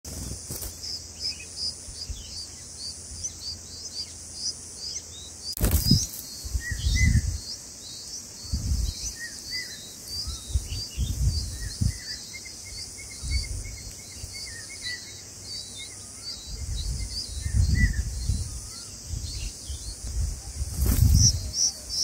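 Small birds chirping: rapid high chirps repeating several times a second throughout, with lower chirps joining in the middle. Dull low thumps or rumbles come several times, the loudest about six seconds in and again near the end.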